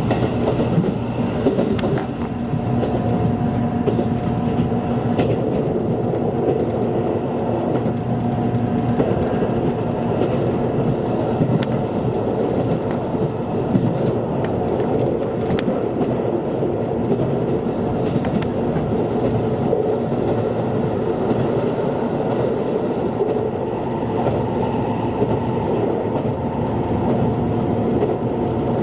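Passenger train running at speed, heard from inside the car: a steady rumble of wheels on rail with scattered clicks and a faint steady hum.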